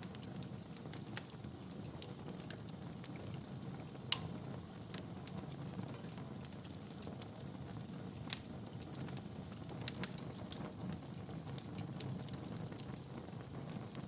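Wood fire burning in a fireplace: a steady low rumble of flames with scattered sharp crackles and pops, the loudest pops about four seconds in and near ten seconds in.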